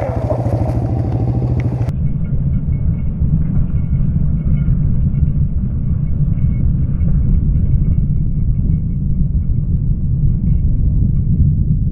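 A motor vehicle's engine running with a steady low tone. About two seconds in, the sound turns abruptly muffled, leaving a dense low rumble.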